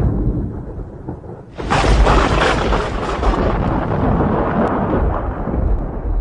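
Thunder: a low rumble dies down, then about one and a half seconds in a sharp, close crack of thunder breaks out and rolls on for several seconds before fading near the end.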